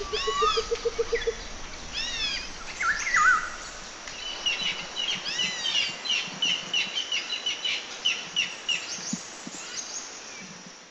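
Birds calling: repeated arched, whistled notes and a quick series of chirps over a steady background hiss, fading out at the very end.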